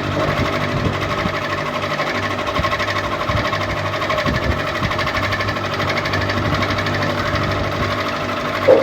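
Ceiling fan running: a steady hum with a fast, even mechanical flutter. A short louder sound comes near the end.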